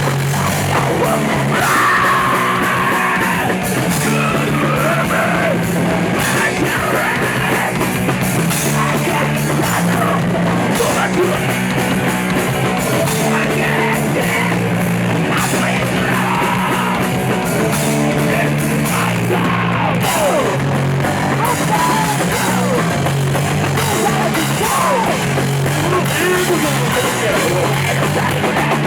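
Punk rock band playing live at full volume: drums, bass and guitars, with yelled vocals over them.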